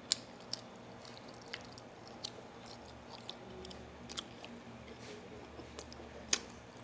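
A person chewing food with the mouth close to the microphone, with a few short, sharp wet mouth clicks and smacks, the loudest near the end.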